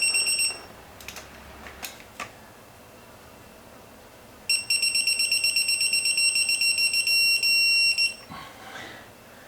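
Electronic torque wrench beeping as head bolts are tightened to 80: a fast run of high beeps stops about half a second in, a few light clicks follow, then a second fast run of beeps about halfway through turns into a steady tone before cutting off. The tone signals that the set torque is reached.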